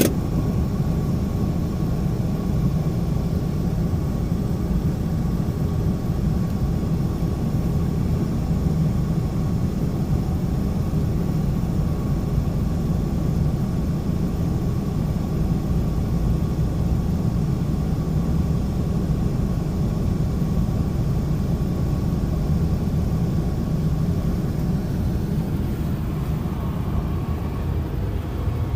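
Steady road noise inside a moving car's cabin: a low, even rumble of engine and tyres on the road.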